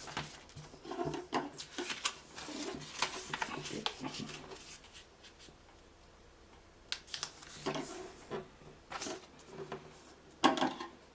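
Sheet of paper being cut and handled: irregular snips and rustles, with a quieter pause in the middle.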